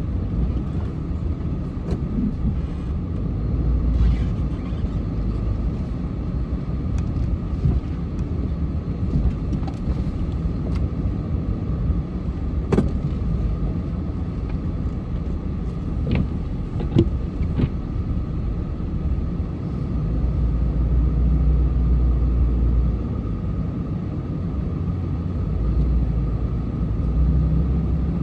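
A moving car's steady road and engine noise, a low rumble that swells and eases a little, with a few faint clicks.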